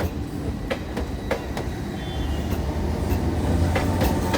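Train running on the rails: a low rumble with irregular sharp clacks of the wheels over rail joints, getting slightly louder toward the end.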